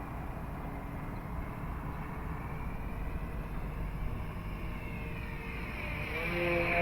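Electric motor and propeller of a Dynam Cub RC plane in flight, a faint whine that grows louder and higher in pitch near the end as the plane comes close.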